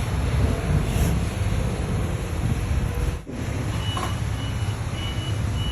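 A heavy machine's engine running with a loud low rumble and a brief dropout about three seconds in. From about four seconds in, a high-pitched backup alarm beeps about twice a second.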